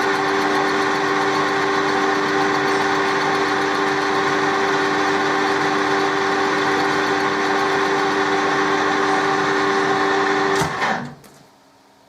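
Colchester metal-turning lathe running with a steady hum and whine while cutting tough material. It is switched off about eleven seconds in and goes quiet within a second.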